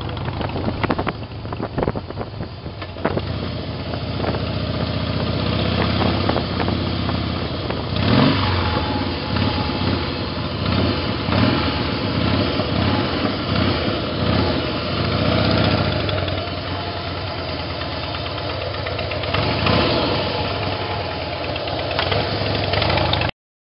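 Harley-Davidson Heritage Softail's roughly 1550 cc V-twin engine running at road speed, heard from the pillion seat with wind rushing over the microphone; the engine note rises and falls in places as the rider works the throttle.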